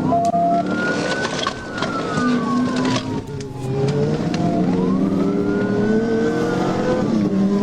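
Police siren on a wail, slowly rising and falling twice, over a car engine accelerating hard with its pitch climbing, with a few sharp clicks.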